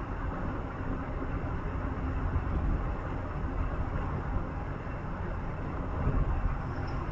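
Steady low rumble and ride noise of a moving vehicle, heard from inside, with no distinct events.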